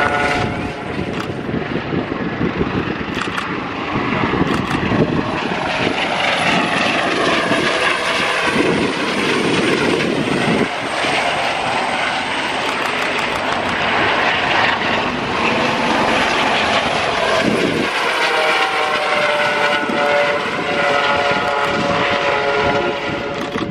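Aircraft engines as a plane flies past at an airshow, loud and sustained, with the engine tones sliding in pitch as it passes.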